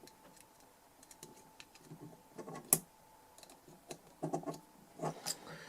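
Irregular light clicks and taps of small hand tools working on the inside of a DI box while clearing out gunk, with a sharper click about two and a half seconds in and a few more near the end.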